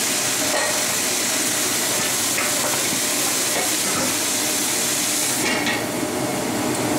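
Choy sum sizzling steadily as it fries in a wok, with a few light ladle ticks. Near the end a glass lid goes on the wok and the hiss drops and dulls.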